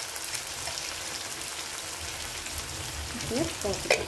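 Chopped tomatoes frying in a pan with a steady sizzle and crackle. A single sharp knock comes just before the end.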